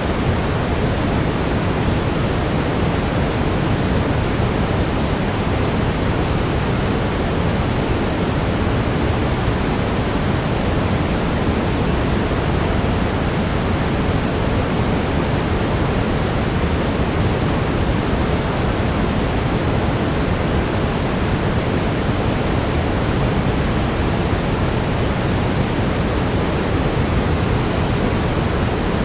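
Steady synthetic brown noise: an unchanging, even rush, fuller in the low end.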